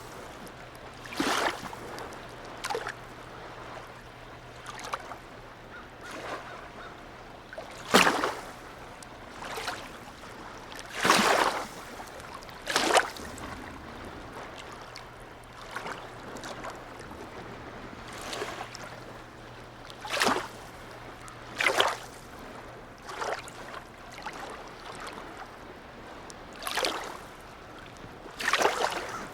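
Harbour water lapping and slapping in short splashes every one to three seconds, over a faint steady low hum.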